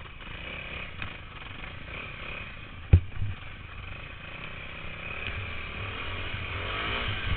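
Motorcycle engine running steadily, with a single sharp knock about three seconds in. Near the end an engine note rises in pitch.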